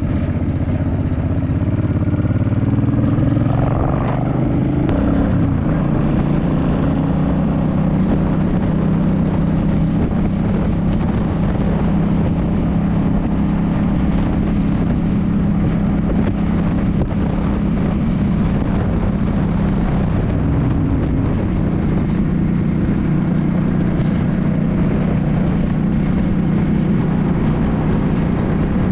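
2006 Suzuki C50's V-twin engine running while the motorcycle is ridden, its note shifting about four seconds in and again near the end before settling back to a steady cruise.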